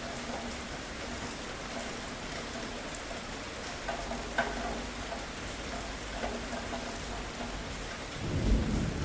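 Steady rain falling, with scattered sharp drops tapping. Near the end a low rumble of thunder swells in and becomes the loudest sound.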